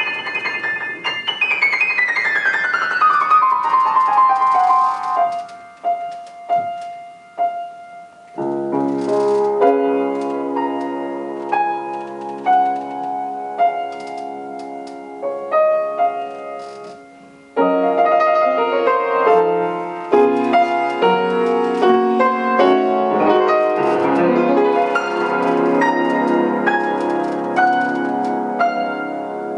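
Solo piano playing. A fast run descends from high to middle register, followed by a few repeated single notes. Full chords enter about eight seconds in, and a fuller, busier passage starts about eighteen seconds in.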